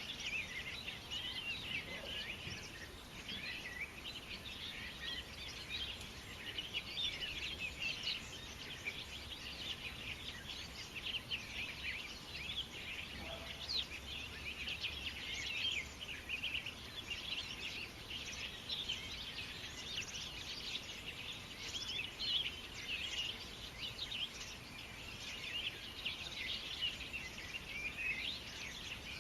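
Many small birds chirping and singing at once, a dense, unbroken chorus of short high calls.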